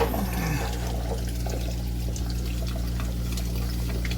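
Water pouring and trickling out of an electric water heater's element opening, because the tank was not fully drained. A short falling tone comes right at the start, and a steady low hum runs underneath.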